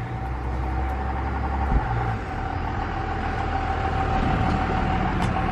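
Motor vehicle engine running steadily: a constant low rumble with a single steady whine above it.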